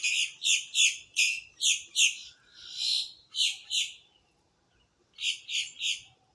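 Blackbirds calling: short, harsh, high 'laser' notes, about three a second in a run of about ten with one longer call among them, then a pause and three more near the end.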